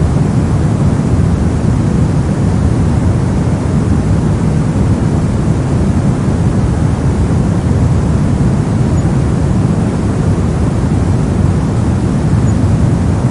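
Brown noise: a steady, deep rumbling hiss, strongest in the lows and fading toward the highs, with no change or events.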